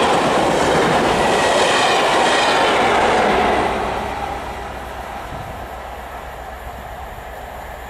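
Class 43 HST test train passing close by at speed, a loud steady rush of wheels and coaches on the track that drops away after about three and a half seconds as the train recedes.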